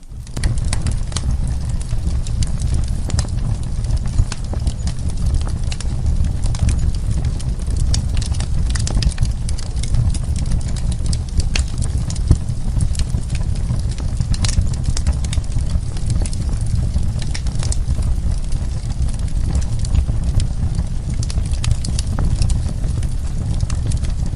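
Wood fire crackling, with frequent sharp pops and snaps scattered irregularly over a low, steady rumble of flames.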